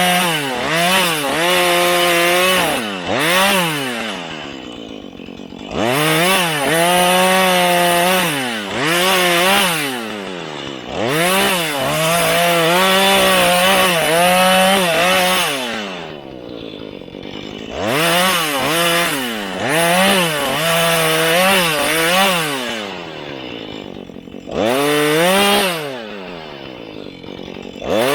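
Husqvarna 435 two-stroke chainsaw revved up and down again and again: bursts at full throttle with the pitch dipping as it cuts wood, falling back to idle between bursts several times.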